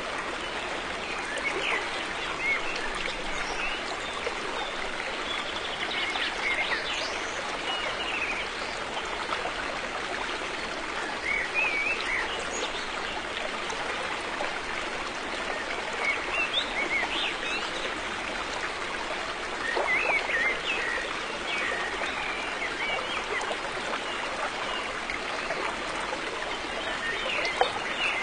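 River water flowing steadily over stones, a continuous rushing with small splashes and gurgles scattered through it.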